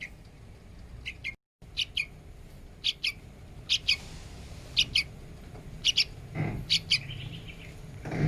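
A young hand-reared trucuk (yellow-vented bulbul) giving short high chirps, many of them doubled, about once a second.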